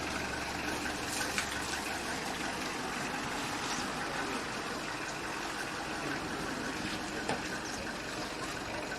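Safari vehicle running, heard as a steady, even rushing noise with no distinct events.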